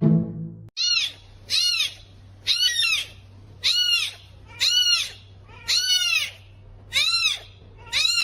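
An animal calling over and over: a string of short, high-pitched calls, each rising and then falling in pitch, about one every half second to second, over a steady low hum.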